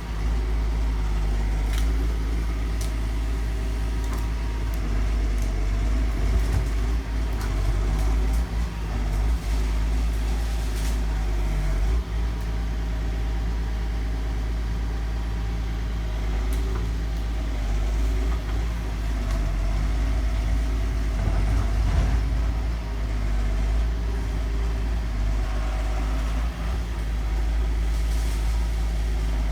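Excavator's diesel engine running steadily under work, with scattered light knocks and clanks.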